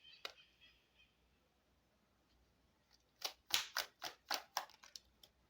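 A deck of fortune-telling cards being handled. There is one faint click near the start, then about eight sharp card clicks in quick succession over the last two seconds.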